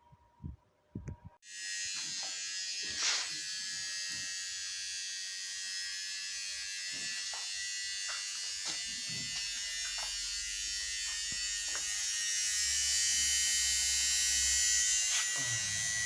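A small electric motor or blower switches on suddenly about a second and a half in and runs steadily with a high hiss, growing a little louder near the end, with a few faint knocks over it.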